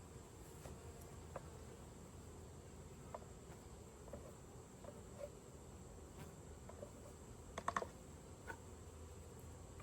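Faint buzzing of honeybees around an open hive, with a few light clicks and taps, a quick cluster of them about three-quarters of the way in.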